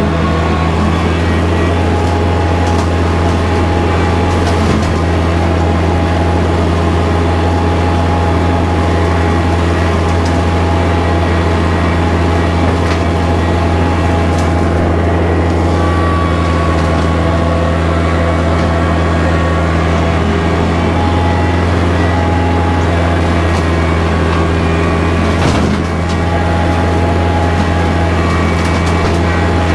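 Kubota tractor's diesel engine running steadily at a constant speed, with a few short knocks and snaps over it and a brief dip about three quarters of the way through.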